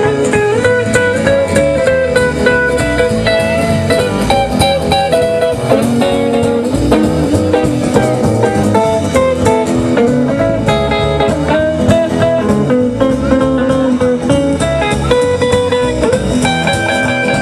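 Live rockabilly band playing an instrumental break, an electric guitar taking the lead over a steady beat.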